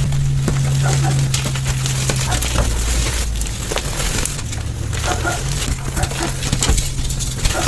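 Gym chalk being crushed, played at double speed: a dense run of crackling and crunching clicks, over a steady low hum.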